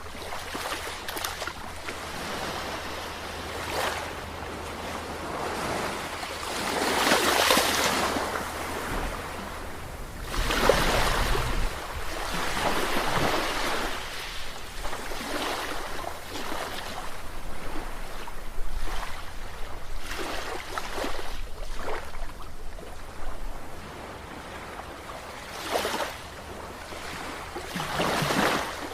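Sea waves breaking and washing in uneven surges, the biggest about seven and eleven seconds in and two more near the end, with a faint steady low hum underneath.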